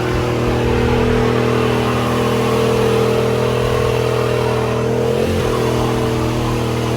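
Truck engine held at steady high revs during a burnout, with a brief dip and recovery about five seconds in.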